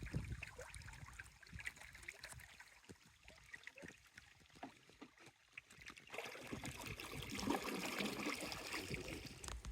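Faint water sounds: light trickling and dripping with scattered small ticks, then, about six seconds in, an abrupt change to a steadier, louder hiss.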